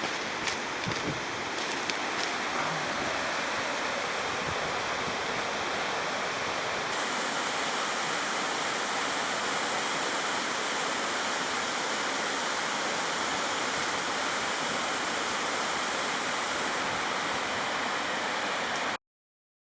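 Steady rush of flowing water from a stream or small waterfall, with a few faint clicks in the first couple of seconds. It cuts off suddenly near the end.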